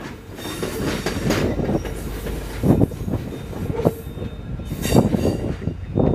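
VIA Rail passenger train running away just after its last car has passed: steady wheel rumble with a faint squeal, and a few sharp knocks of the wheels over rail joints about a second apart.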